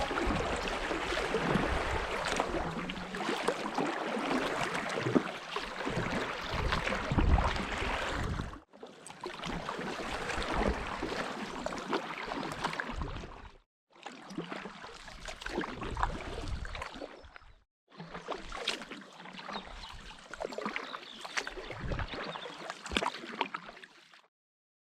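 Water splashing and gurgling around a boat paddled on a river, in four short stretches that each cut off abruptly.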